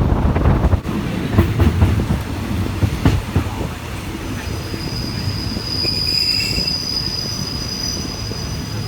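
Train wheels running on the rails with a low rumble and a few clacks over rail joints. From about four seconds in, a steady high-pitched wheel squeal sets in.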